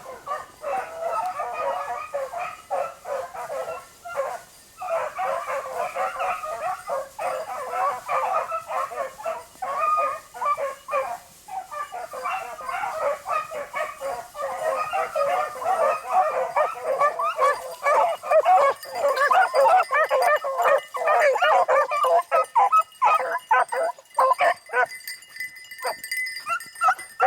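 Beagles baying as they run a rabbit's scent trail, many calls overlapping with no break, growing louder about halfway through.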